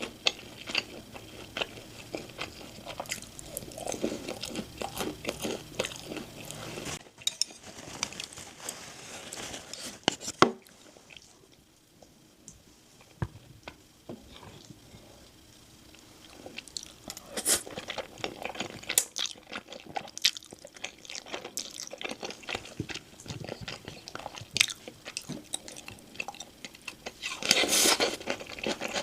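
Close-miked eating: crunching and chewing of crispy fried chicken (dakgangjeong), with a sharp click about ten seconds in and a quieter stretch of chewing a little after. Denser crunching near the end.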